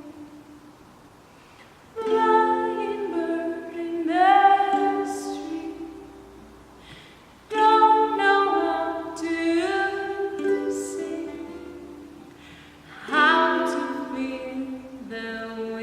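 Music with wordless singing: sustained vocal phrases in harmony, with sliding pitches, starting about two, seven and a half and thirteen seconds in, each fading away.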